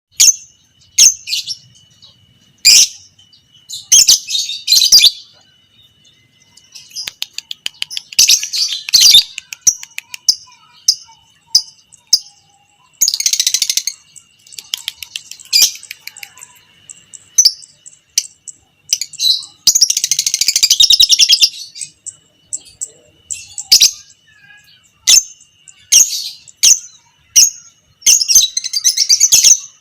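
Lovebird singing: sharp single chirps broken by long, rapid chattering trills (the 'ngekek'), the longest running about two seconds.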